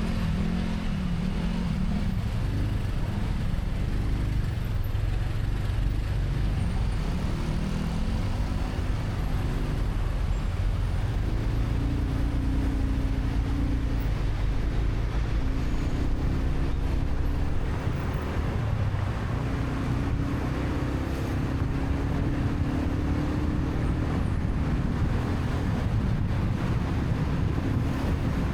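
Motorcycle engine running under load in road traffic, its note rising and falling as the bike speeds up and eases off, over a steady rumble of traffic and road noise.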